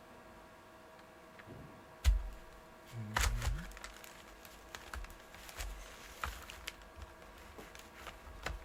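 Clicks and knocks of plastic parts being handled as a vacuum cleaner's rotating-brush head is taken apart by hand, with one sharp knock about two seconds in and a cluster of thuds a second later, then lighter clicks.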